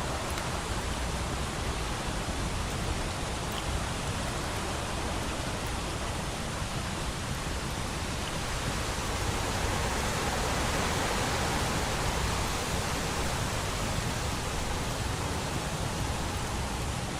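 Steady rain, a continuous even hiss that swells slightly about ten seconds in.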